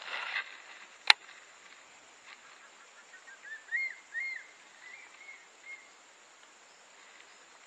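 A bird calling a run of about six short notes that rise and fall in pitch, starting about three seconds in. A single sharp click about a second in is the loudest sound.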